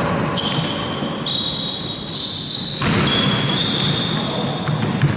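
Basketball players' sneakers squeaking on the court floor: several short high squeals that start and stop and overlap, over the low noise of the hall.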